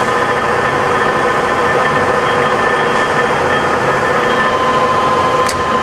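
Cincinnati No. 12 rise-and-fall milling machine running through its automatic cycle: a steady mechanical hum with a high, even whine. A single short click comes near the end.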